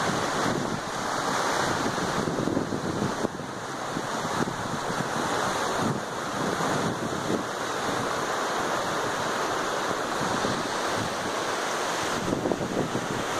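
Steady rush of water pouring over a small cascade, with wind on the microphone.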